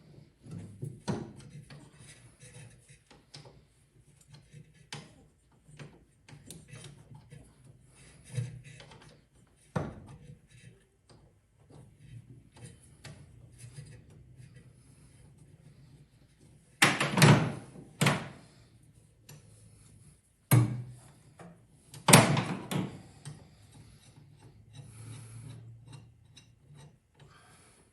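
Hand tools and parts being handled during an engine teardown: scattered clicks, light knocks and rubbing, with a few louder clatters, the loudest about 17 and 22 seconds in.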